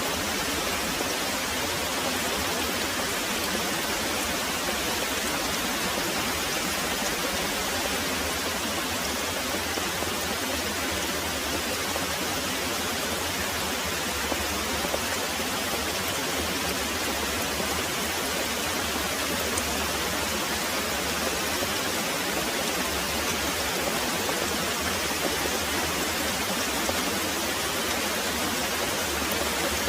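Very heavy rain pouring steadily, a dense, even hiss.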